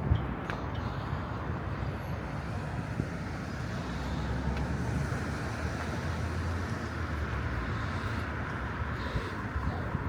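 Steady road-traffic noise outdoors. A low rumble swells about four seconds in and fades again a few seconds later.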